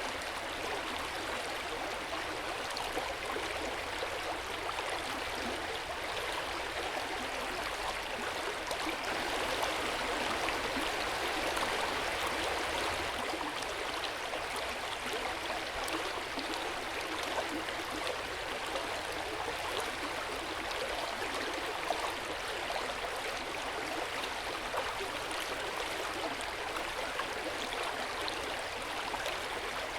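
Hot-spring water flowing and splashing steadily into an outdoor onsen bath, a continuous gentle gurgle that grows a little louder for a few seconds about ten seconds in.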